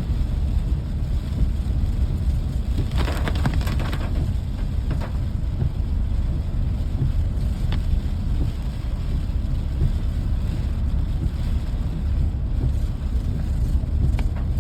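Rainy-day ambience: a steady low rumble with scattered crackles and patters, and a denser burst of crackling about three seconds in.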